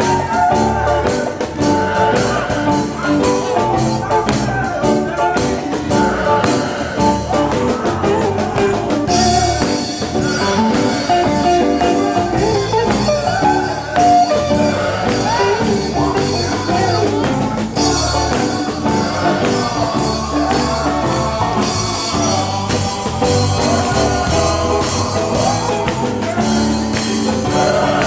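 Gospel song performed live: singing over a band with a steady drum beat and guitar.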